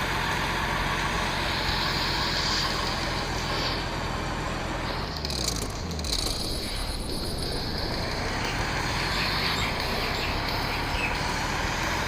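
Truck engine running as it drives, with a brief drop in engine pitch about five seconds in before it picks up again.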